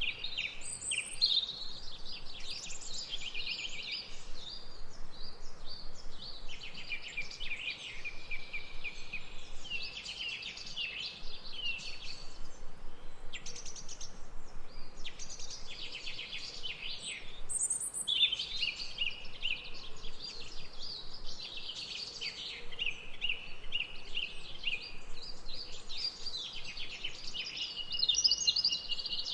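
Songbirds singing in a busy chorus of rapid, high chirping phrases with short pauses, over a faint background hiss.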